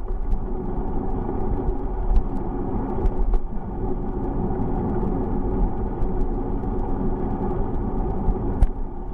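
Steady rumble of wind and road noise from riding a bicycle, with scattered small clicks and rattles and one sharper click near the end.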